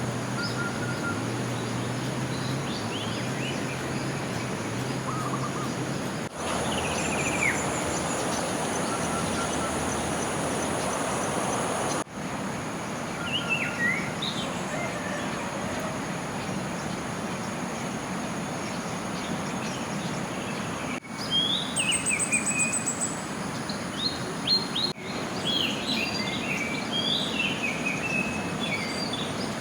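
Rainforest riverside ambience: a steady rush of water with birds chirping in short phrases and a steady high insect drone. The sound changes abruptly a few times, and the birds get busier near the end.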